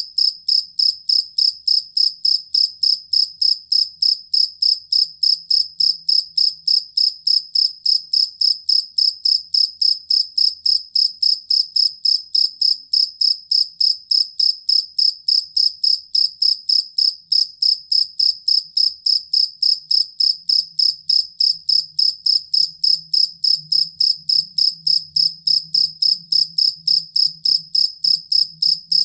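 Cricket chirping in a steady, even rhythm, about three to four short high-pitched chirps a second.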